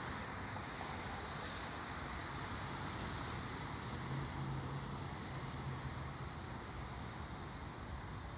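Steady outdoor city background noise: distant traffic and wind on the microphone, with a low hum for about two seconds in the middle.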